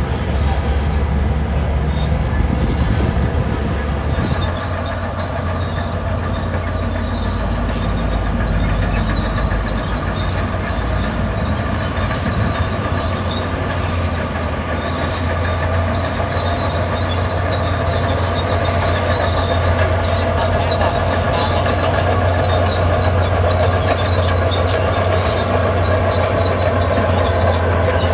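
Crawler bulldozer's diesel engine running steadily, with intermittent high squeaks from its tracks.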